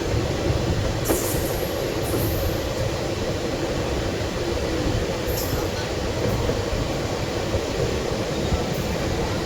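Passenger train running with a steady rumble of wheels on the track, with a few brief high-pitched squeals.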